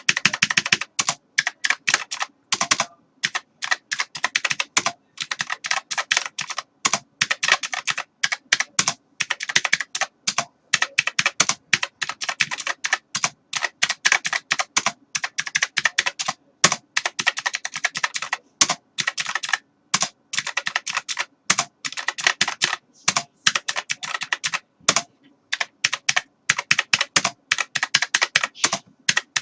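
Computer keyboard being typed on: fast, uneven runs of key clicks with short pauses between bursts.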